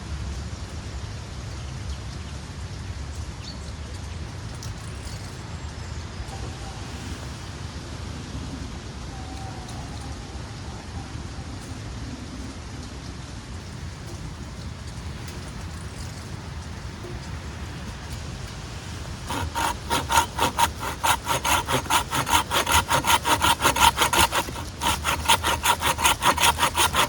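Hand saw cutting wood in quick, even back-and-forth strokes, starting about two-thirds of the way in after a stretch of low, steady background noise.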